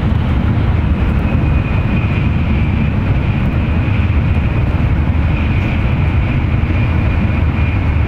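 Tokaido Shinkansen train running, heard from inside the passenger cabin by the window: a steady low rumble of wheels and air with a faint, steady high whine over it.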